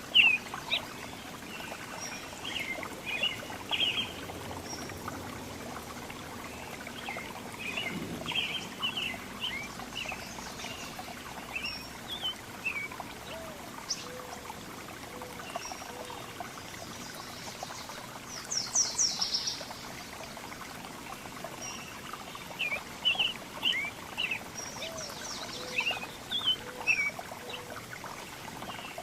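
Several small songbirds chirping with short, scattered high calls over a steady trickle of running water, with a quick run of high notes about two-thirds through. A low short note sounds three times in a row, twice.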